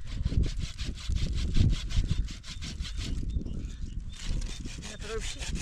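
Hand saw cutting through firewood: a repeated rasping of back-and-forth strokes, pulsing about twice a second.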